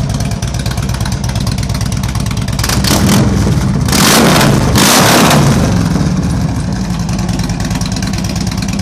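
2008 Harley-Davidson Ultra Classic's Twin Cam 96 V-twin, fitted with Vance & Hines slash-cut tapered slip-on mufflers and a Screaming Eagle Stage 1 kit, idling with a loping beat. Around three seconds in the throttle is blipped several times, the last two the loudest, before it drops back to idle.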